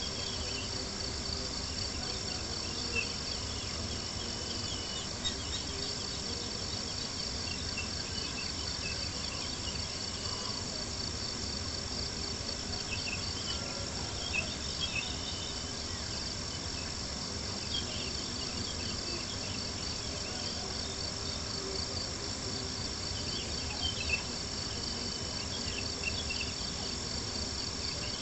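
Crickets trilling in a steady, pulsing chorus, with occasional small pops and crackles from a wood campfire scattered through it.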